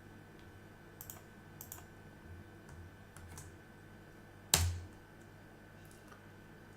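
A few faint computer keyboard keystrokes, then one much louder, sharper knock about four and a half seconds in, as a command is typed into a terminal. A faint steady electrical hum runs underneath.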